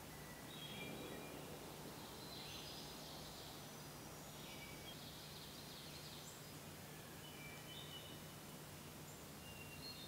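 Faint bird calls: short, high, steady-pitched notes scattered throughout, with two harsher, hissy bursts about two and a half and five seconds in, over a low steady hum.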